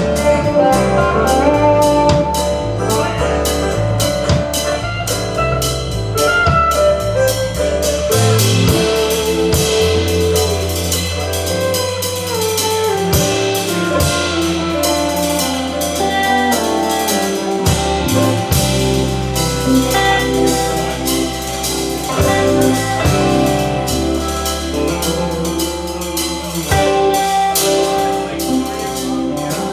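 Live band playing an instrumental country/bluegrass number: a moving lead melody over a bass line and a steady drum-kit beat, with no singing.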